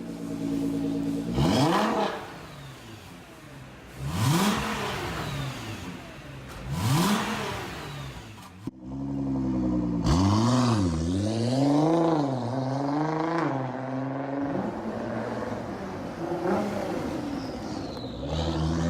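Nissan Skyline GT-R engine with a Ditona remote-valve catback exhaust being revved in blips: three sharp revs in the first seven seconds, a quicker run of rises and falls from about nine to fourteen seconds, and another rev climbing near the end.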